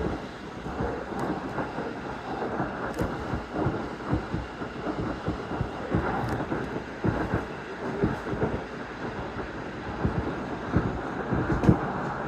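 Kawagoe Line electric commuter train running between stations, heard from inside the car: a steady rumble of wheels on rails, with irregular low thuds from the track.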